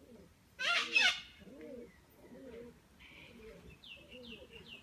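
A pigeon cooing softly over and over in low, rounded notes. About a second in there is a brief, louder, higher sound, and near the end a small bird chirps quickly several times.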